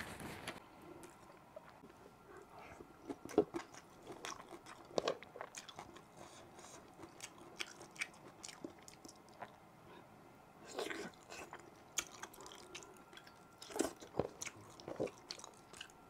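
Close-up chewing and biting of rice and tender boiled beef eaten by hand, with scattered short wet mouth clicks and a few louder sharp sounds.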